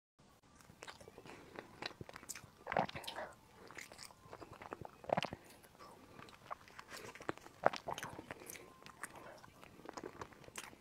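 Close-up mouth sounds of someone chewing soft, grainy taro-paste cheese balls: scattered wet clicks and smacks, with a few louder bites about 3, 5 and 7.5 seconds in.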